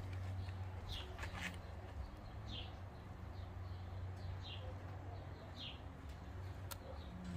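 A small bird chirping over and over: short, high, falling chirps about a second apart. Underneath is a steady low hum, with a few light clicks about a second in and again near the end.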